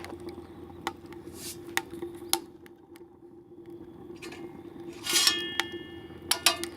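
Rocket heater burning with a steady low hum, punctuated by sharp ticks and crackles. About five seconds in comes a louder metallic clatter that rings briefly.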